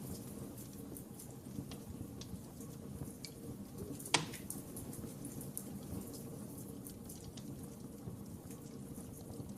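Wood fire in a fireplace crackling steadily, with scattered small snaps and one sharper, louder pop about four seconds in.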